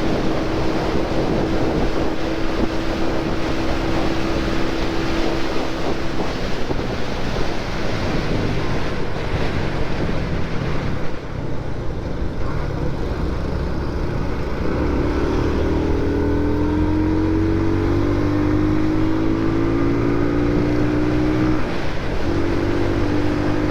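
Motorcycle under way, with heavy wind noise on the microphone that eases about halfway through. From about two-thirds in, the engine note climbs steadily, drops suddenly near the end, then climbs again.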